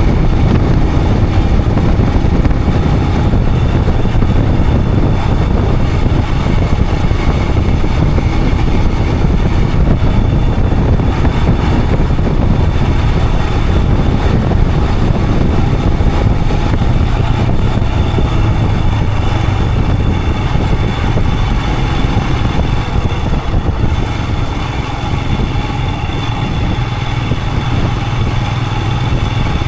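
Royal Enfield Himalayan 411's single-cylinder engine running steadily while riding, under heavy wind rush on the action-camera microphone. The sound eases a little near the end.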